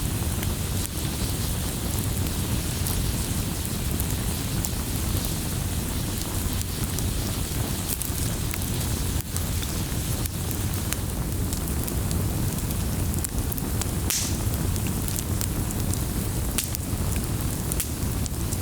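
Wood fire crackling in a fireplace: a steady low rumble of flames with frequent sharp pops, and one louder crack about three-quarters of the way through.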